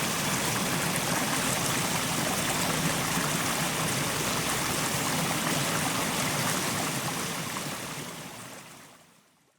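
Mountain stream, water flowing and splashing steadily over rocks; it fades out over the last couple of seconds.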